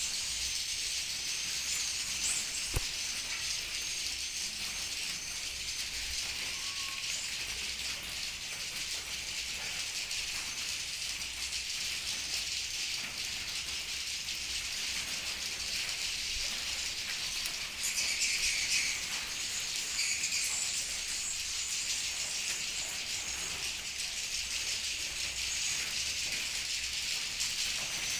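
Swiftlets twittering: a dense, unbroken mass of high chirps with no pauses, swelling a little past the middle.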